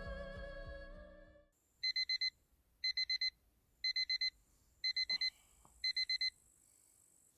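Background music fading out, then a digital alarm beeping in the classic pattern: five groups of four quick high beeps, about one group a second.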